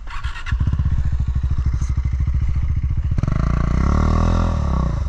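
Single-cylinder motorcycle engine running with an even beat after a short clatter at the start. In the last two seconds it is revved up and eases back down.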